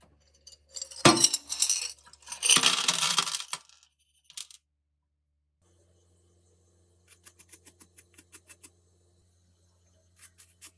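Small metal parts clattering and clinking against a hard surface, with a sharp knock about a second in. Later comes a run of light, evenly spaced ticks, about four or five a second.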